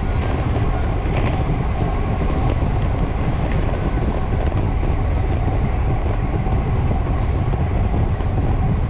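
Steady wind rush buffeting the microphone, with road noise, while riding a bicycle.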